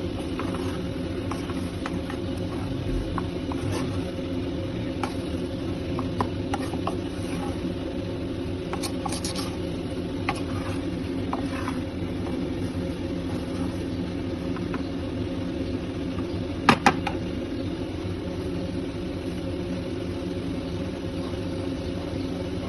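A spatula scraping and tapping against a kadai as grated paneer is stirred: scattered light clicks, with two sharper knocks about three quarters of the way through, over a steady low hum.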